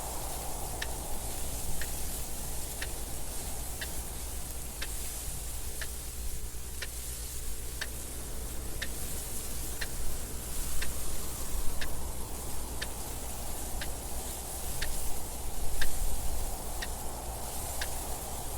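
Clock ticking evenly, about once a second, over steady wind noise that swells twice in the second half.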